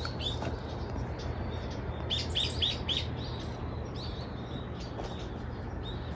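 Small birds chirping in the scrub: short high calls, with a quick run of four notes about two seconds in and single chirps around it, over a steady low background noise.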